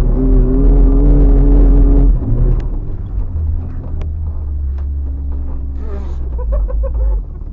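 Suzuki Samurai's engine running hard while towing a sled through snow, heard from inside the vehicle. It holds a high, steady note for about two seconds, then drops to a lower steady drone that falls away near the end. A few sharp ticks sound over it.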